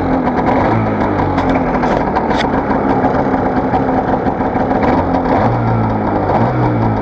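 Polaris 550 twin-cylinder two-stroke snowmobile engine running at idle shortly after a cold start, its speed lifting a little about five and a half seconds in and again near the end.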